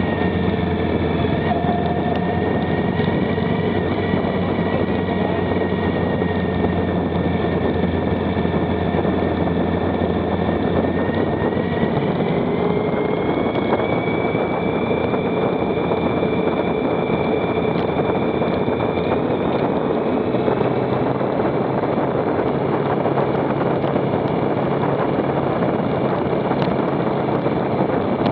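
Motorcycle engine running under way, its pitch easing down slowly, then climbing again, with a change in its low note about two-thirds through, over steady wind rush.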